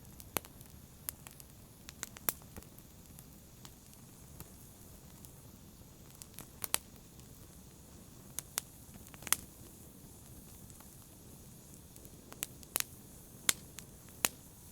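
Wood fire crackling: irregular sharp pops and snaps, a dozen or so of the louder ones, over a low steady rustle of burning, with a couple of quieter spells between bursts of pops.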